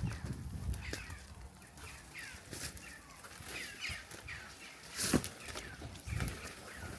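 Birds calling repeatedly with short, downward-sliding chirps, with a single sharp knock about five seconds in.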